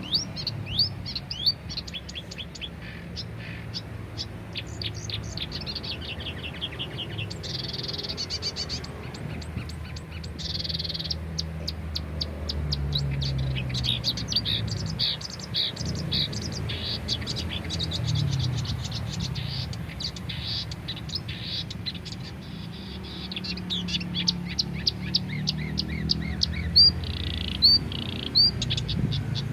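Several songbirds chirping and singing in rapid runs of short, sharp, high chirps and trills, over a low steady hum.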